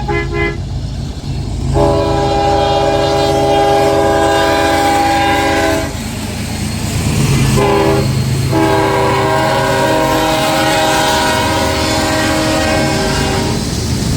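Diesel locomotive's multi-chime air horn sounding a short toot, then a long blast, a short one and another long one, the pattern of a grade-crossing signal, over the low rumble of the passing train.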